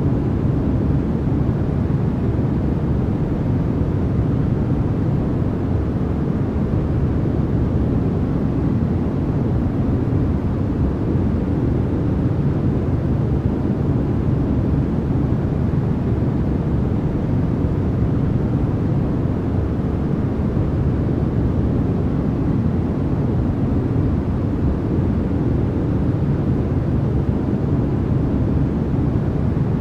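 Steady, unchanging noise played as a sleep and focus track, with its weight in the low end and little treble, so it sounds like a deep, even rush rather than a bright hiss.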